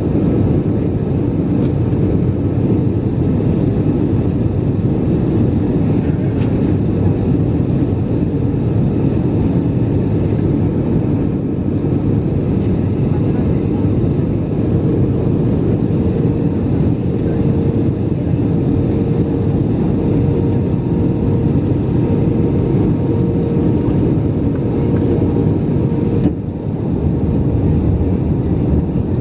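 Cabin noise inside an Airbus A319 on approach: the steady rush of the jet engines and airflow, with a steady hum and a faint high whine running through it. The level dips briefly near the end.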